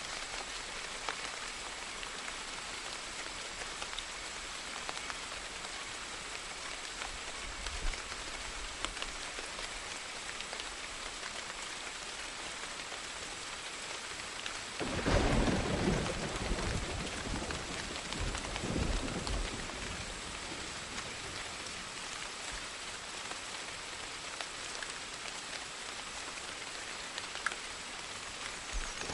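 Steady rainfall with a rumble of thunder about halfway through, fading over a few seconds.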